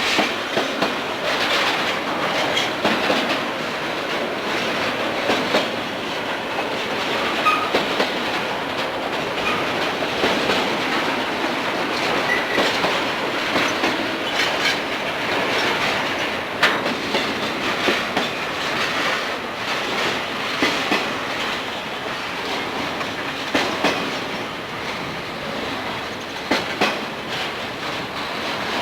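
Freight train cars rolling past, their wheels clicking steadily over the rail joints, with a few brief high wheel squeals.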